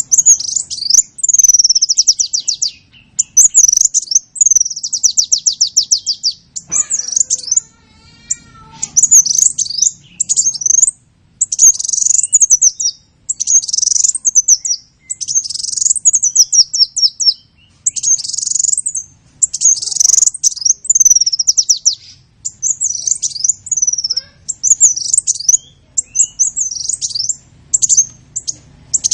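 A songbird singing loud, high phrases of rapid trilled notes, one phrase after another with short pauses between them.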